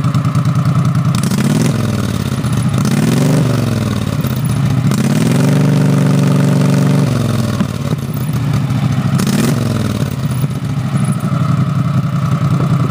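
Max IV amphibious ATV engine breathing through a custom exhaust header, idling with a steady pulse and revved: two quick blips, a higher rev held for about two seconds, then one more blip before it drops back to idle.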